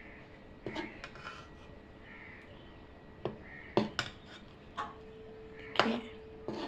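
Metal utensils clinking and knocking against a kadhai (Indian wok), about eight short, sharp strikes at uneven intervals.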